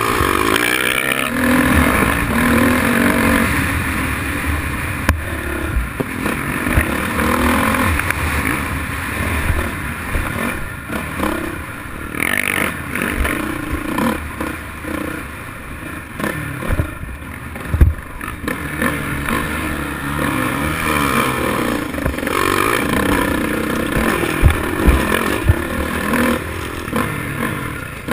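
Motocross dirt bike engines running and revving, their pitch rising and falling as the throttle opens and closes. Scattered sharp thumps and clatter, the loudest about two-thirds of the way through.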